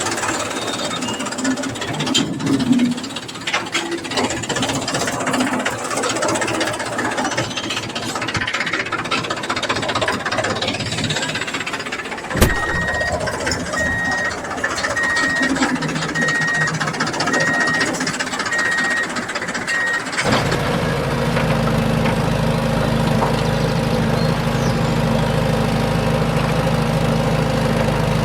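Diesel engines of a backhoe loader and tractor working, with clanking and rattling. After a sharp knock about halfway, a warning beeper sounds about once a second. Then an abrupt change to a steady engine idle near the end.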